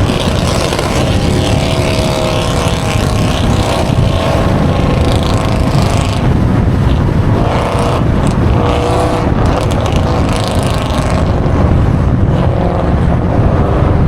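Chevrolet Camaro SS V8 running loud through headers with no catalytic converters, revving hard under acceleration with its pitch climbing several times through the gears. The owners call it one of the nastiest-sounding they have heard.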